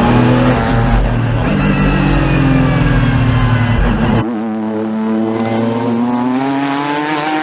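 Race car engines at high revs, the pitch climbing and dropping through gear changes. About four seconds in the sound switches abruptly to a different, thinner engine note.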